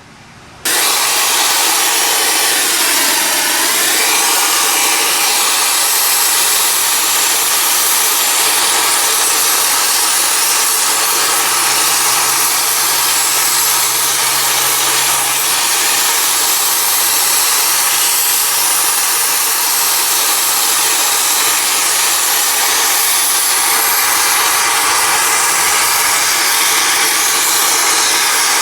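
Gas torch burning with a steady hiss, heating a seized kingpin to free it. The hiss starts abruptly just under a second in.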